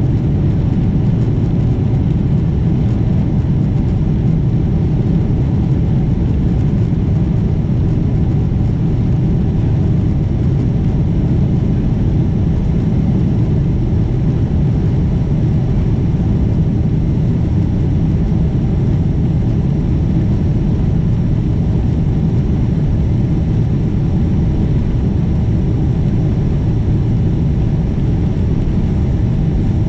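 Boeing 777-200 airliner's engine and airflow noise, a steady low rumble with a faint hum and no rise or fall in pitch.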